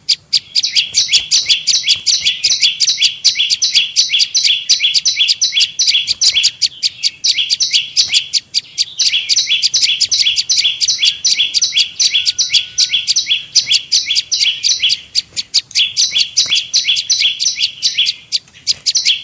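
Prenjak lumut (a prinia) calling in a rapid, unbroken stream of sharp, high chirps, several a second, with a few brief pauses. It is a lure call of the kind played to attract prinias.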